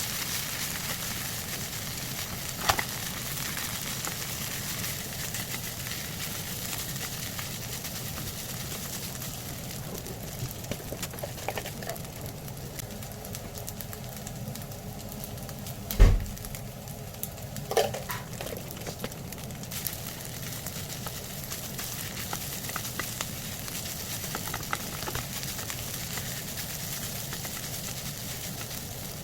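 Food sizzling steadily in a frying pan, with a sharp knock about three seconds in and a louder thump a little past the middle, then another knock soon after.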